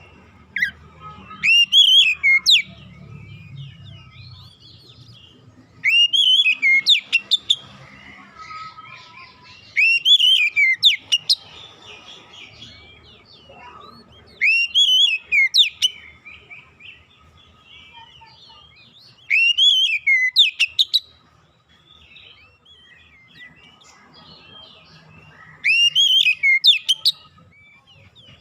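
Oriental magpie-robin singing: a loud phrase of rising, arched whistled notes repeated six times, about every four to five seconds, with softer chattering notes in between.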